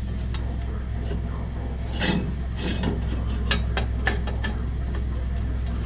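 Steel exhaust pipe pieces and clamps being handled and adjusted: scattered metallic clicks and knocks, with a longer scrape about two seconds in.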